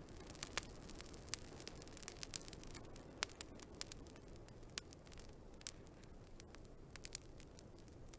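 Wood fire burning with a low steady rumble and irregular sharp crackles and pops, one louder pop about three seconds in.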